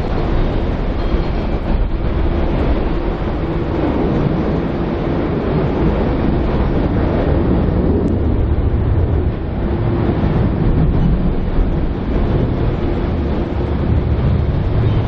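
Strong gusting wind buffeting the microphone: a loud, steady low rumble with no breaks.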